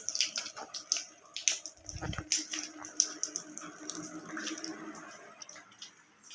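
Water dripping and splashing in many irregular drops, with a low thud about two seconds in and a faint steady hum underneath that fades out about five seconds in.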